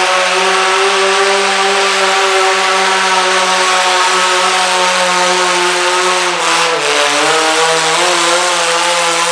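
Modified garden pulling tractor's engine running at steady high revs under load in a tractor pull. The pitch sags briefly about two-thirds of the way through, then picks back up and holds.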